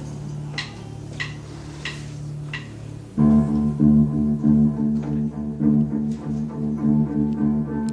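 Live worship band beginning a song. A held low note sounds under four evenly spaced ticks counting in, then about three seconds in the full band enters loudly with bass and guitar.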